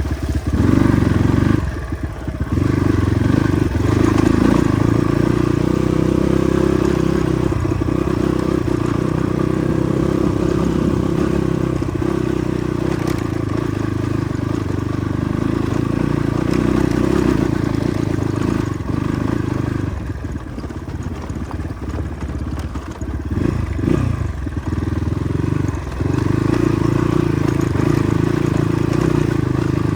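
Motorcycle engine running steadily on a rough, wet road, its sound dropping briefly about two seconds in and a few times past the two-thirds mark as the throttle eases off.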